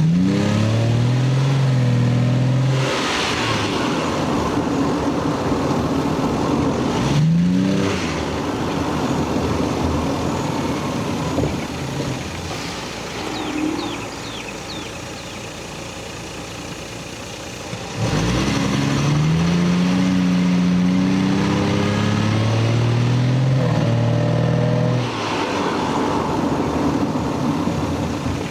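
Lexus GS300's 2JZ-GE inline-six and stock exhaust revving up and holding raised revs for a couple of seconds, dropping back, blipped briefly, settling to a quieter steady run, then revved and held again for about six seconds before falling away.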